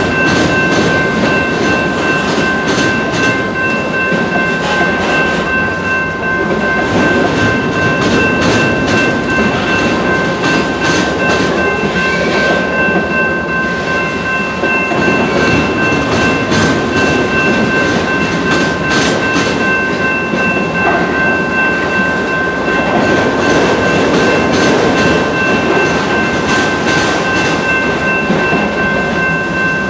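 CSX autorack freight cars rolling steadily past at close range, their wheels clicking over the rail joints under a continuous rumble. Several steady high-pitched tones ring on throughout.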